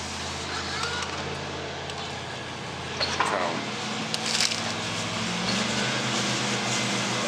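Claw machine running during play: a steady motor hum that steps in pitch as the gantry moves, with a few light clicks and a short voice-like sound about three seconds in.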